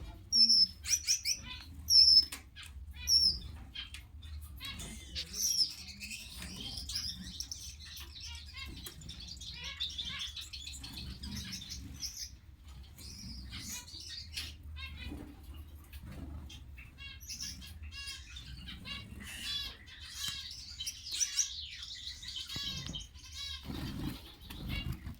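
Caged Gouldian finches chirping and fluttering: loud short high calls in the first few seconds, wing flutters and small clicks throughout, and rapid warbling trills near the end.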